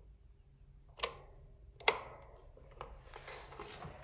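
Two sharp clicks about a second apart, then faint scratchy ticking, over a faint steady hum from the motor of a Comfort Zone 9-inch cradle fan. The motor is seized: it hums when switched on but the blades do not turn.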